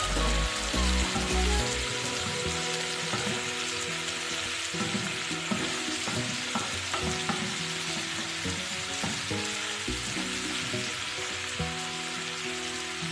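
Chicken pieces and chopped garlic sizzling steadily in oil in a nonstick frying pan, with a wooden spoon stirring them and knocking against the pan now and then.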